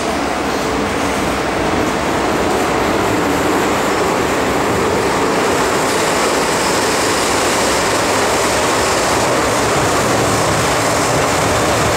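Metro-Cammell M-Train electric multiple unit running between stations on the underground Island Line, with steady wheel-and-rail rumble and motor noise. It grows slightly louder over the first couple of seconds, then holds steady.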